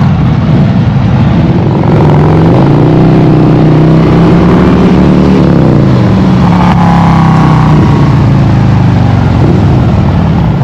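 Motorcycle engine running loudly; its pitch rises about two and a half seconds in, holds for a few seconds, then drops back to a lower run.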